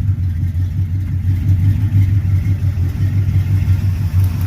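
1985 Oldsmobile Cutlass engine idling steadily, its exhaust running through short straight pipes and Thrush mufflers with an even, low rumble.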